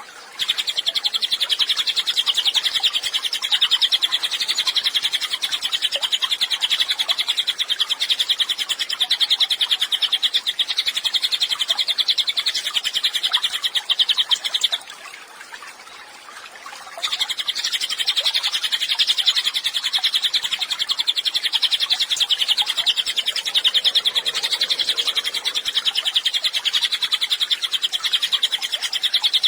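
A cililin bird singing a long, very fast high trill of rapid repeated notes. The trill breaks off for about two seconds around the middle, then starts again.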